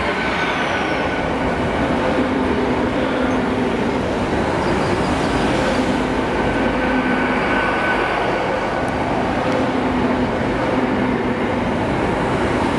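Great Western Railway intercity train rolling slowly past along the platform: steady, loud running and wheel noise, with faint humming tones that come and go.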